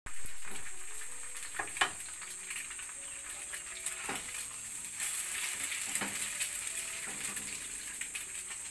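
Eggs and hash browns sizzling in a frying pan on a gas stove. A spatula scrapes and taps against the pan a few times, sharpest about two seconds in.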